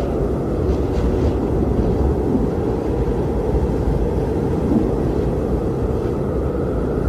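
Strong blizzard wind blowing steadily, a deep, even rush without let-up.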